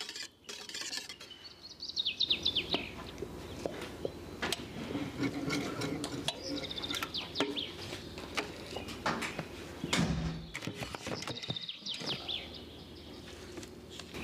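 A small bird chirping in three runs of quick falling notes, over scattered clinks and knocks of a metal balloon whisk against a stainless steel pot, with one louder knock about ten seconds in.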